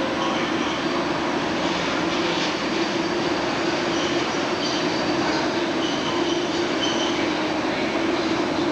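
A train running through a station with a steady rumble, and faint high-pitched squeals from the wheels on the rails about halfway through.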